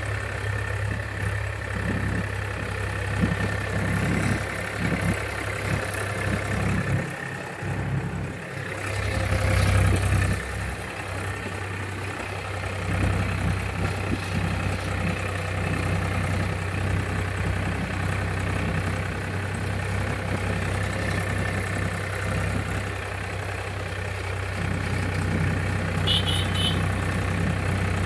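Tractor engine running steadily at low revs, dipping briefly about seven seconds in and picking up again around ten seconds.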